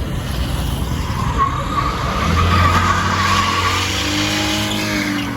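A car pulling away hard with its tyres squealing and skidding, the engine revving, its pitch climbing over the last second or so.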